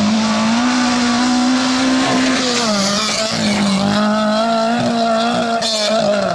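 Rally car engine running hard at high revs on a gravel stage, its note steady, then dipping about two and a half seconds in and climbing back.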